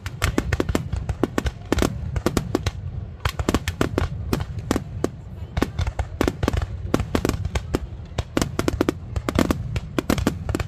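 Aerial fireworks going off in a rapid, continuous barrage: many sharp bangs several a second over a steady low rumble, with a short let-up about two and a half seconds in.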